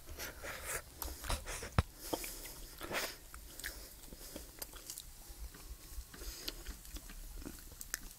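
A person chewing a mouthful of chicken and vegetable mince, with irregular small clicks and smacks.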